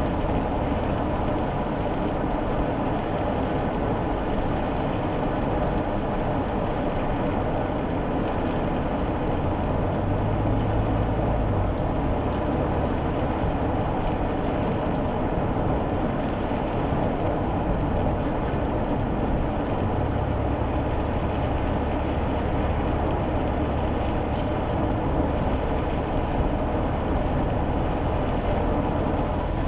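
Cabin sound of a kei car driving: a steady hum from the small engine under the road and tyre noise. The engine note shifts briefly about ten seconds in and changes again about twenty seconds in.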